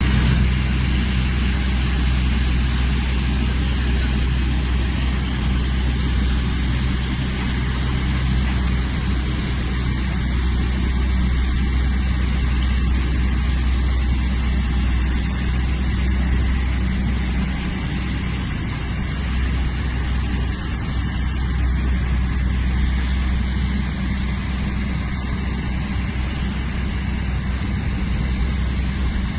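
Steady, loud engine noise of an aircraft pushback, a constant low hum with a continuous rushing haze that barely changes throughout.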